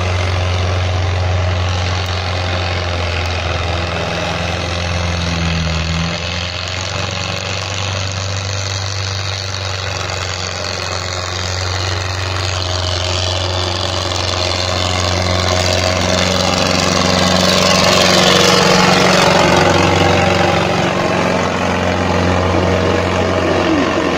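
Indo Farm 3055 tractor's diesel engine running steadily with a deep hum, growing louder for a few seconds about two-thirds of the way through.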